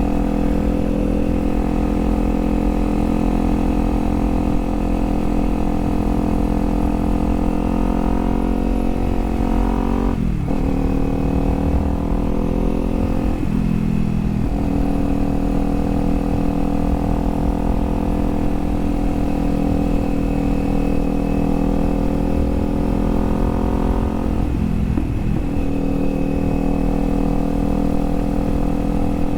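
Kawasaki Z400 parallel-twin engine running under way. Its pitch climbs under acceleration and drops sharply at gear changes: once about ten seconds in, again a few seconds later, and twice more near the end.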